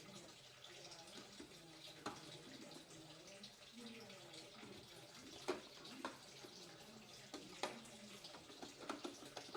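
Faint water running from a tap, with several sharp knocks and clinks of fridge parts being handled while they are washed.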